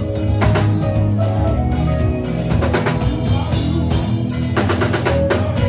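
Live band playing an afrobeats groove, with the drum kit to the fore and a quick run of drum hits near the end.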